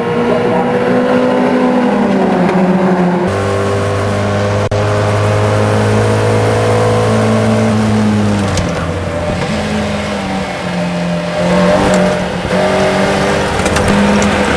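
Race car engine running hard on track, its note sliding down and stepping to new pitches several times as the car changes gear.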